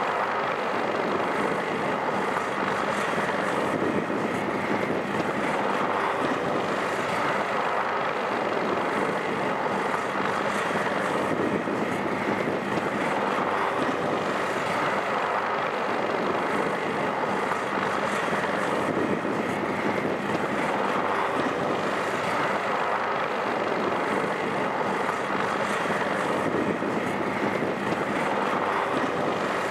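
Helicopter engine and rotor noise, running steadily at a constant level.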